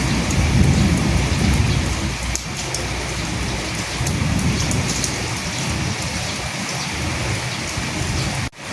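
Steady rain falling, with low thunder rumbling in the first two seconds and again about four seconds in. The sound breaks off for an instant near the end.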